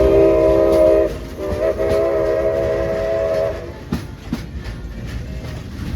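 Steam locomotive's chime whistle blowing two blasts, several notes sounding together as a chord. The first blast stops about a second in and the second follows after a short break, lasting about two seconds. Afterwards the train cars click and rumble along the track.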